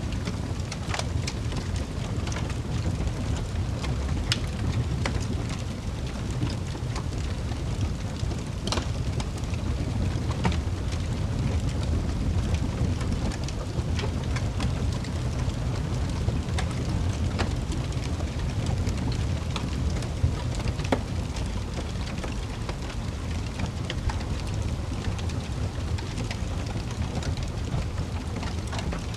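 Wood fire crackling in a fireplace: irregular sharp pops and snaps, a few louder ones about 4, 9 and 21 seconds in, over a steady low rumble.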